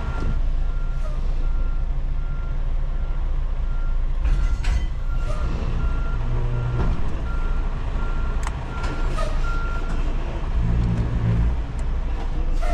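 Truck backup alarm beeping at a steady, even rhythm over a diesel engine's low rumble; the beeping stops about ten seconds in.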